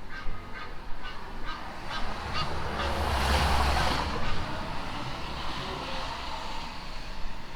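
A goose honking repeatedly, about two short calls a second, fading out after a couple of seconds. A vehicle passes about three seconds in, with a low rumble and a rush of noise.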